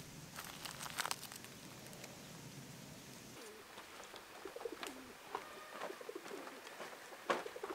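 Low cooing bird calls, short and repeated, from about three and a half seconds in. Before them there are light crackles and clicks, and a sharp click near the end is the loudest sound.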